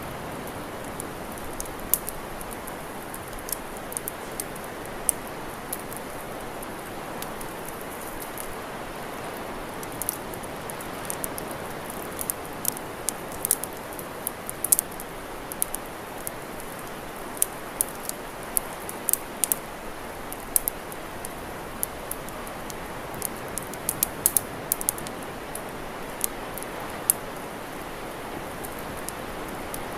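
Wood campfire crackling: irregular sharp pops and snaps over a steady rushing hiss.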